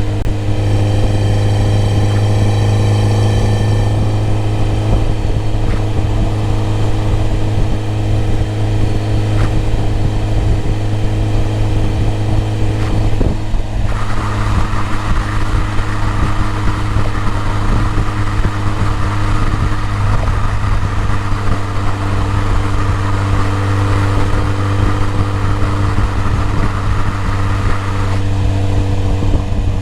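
BMW E30 M3's four-cylinder engine idling steadily, with a constant low hum.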